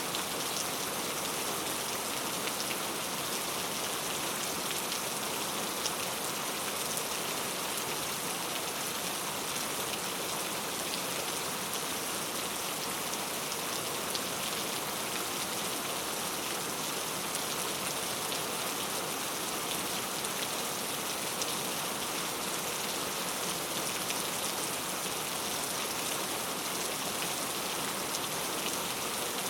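Steady heavy rain falling and pattering on surfaces, a constant hiss of countless drops without a break.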